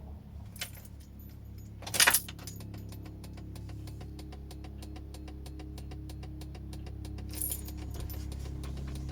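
Volvo 240's CIS (K-Jetronic) injected petrol engine cold-starting: a short loud crank about two seconds in that catches almost at once, then a steady idle with a fast, even ticking.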